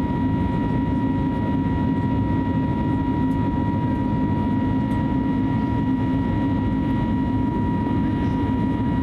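Steady cabin noise inside an Airbus A320neo with CFM LEAP-1A engines: an even rumble of engines and airflow with a constant high whine over it.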